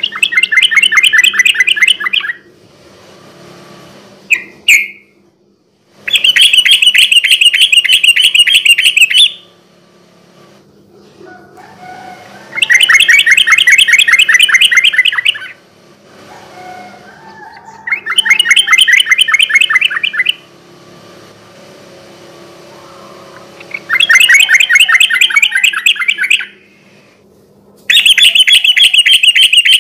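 A yellow-vented bulbul (trucukan) singing its rapid rolling 'ropel' song in six loud bursts a few seconds apart. Each burst is a fast run of repeated notes. A single short rising note falls between the first two bursts.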